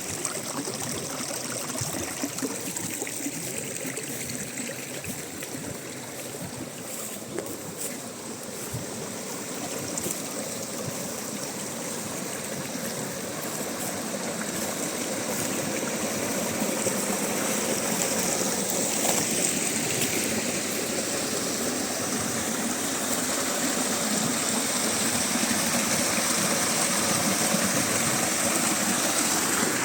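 Spring water running and trickling in a steady rush that grows louder about halfway through.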